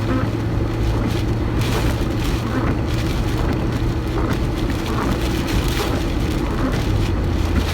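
Steady road noise inside a moving car: a constant low engine hum over tyre rumble.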